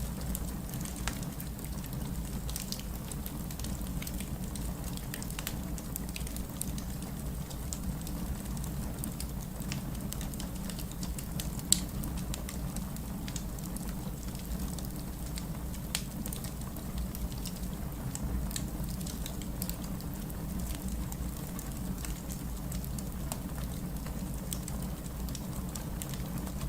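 Fireplace fire crackling, with scattered small pops over a steady low rumble; one sharp pop about twelve seconds in and a smaller one a few seconds later.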